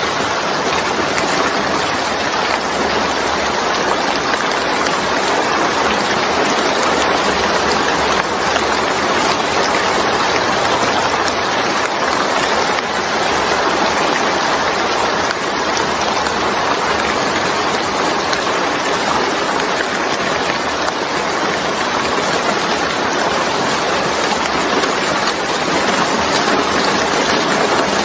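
Steady, heavy rain falling, an even rushing hiss.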